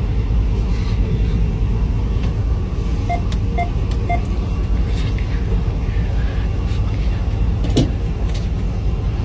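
Steady low rumble inside a moving freight locomotive's cab, with three short beeps about half a second apart a few seconds in and a sharp click near the end.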